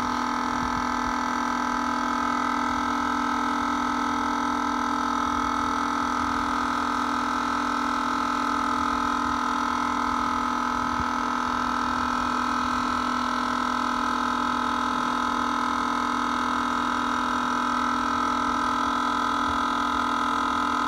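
12-volt air compressor running steadily with a constant hum, pumping up to about 80–90 psi, where it builds pressure slowly.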